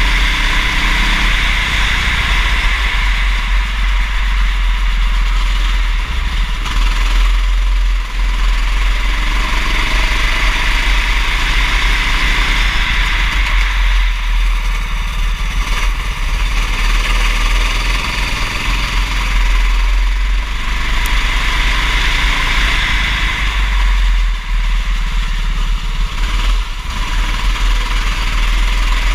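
Kart engine running under racing load, its note swelling and easing several times as the kart laps, over a constant deep rumble.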